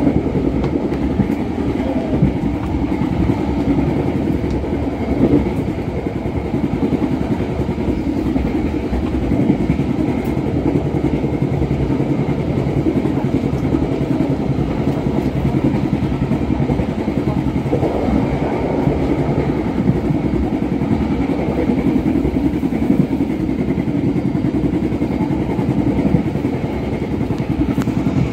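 KA Bengawan Solo passenger train running along the track, heard from inside the carriage: a steady rumble and rattle of wheels and coaches.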